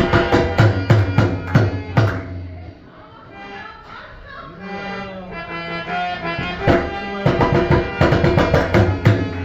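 Tabla playing, with fast strokes on the small drum and deep bass tones from the bayan. There is one busy passage over the first two seconds and another from about seven seconds in. Between them a held, reedy melody, like a harmonium, carries on with the drums dropped back.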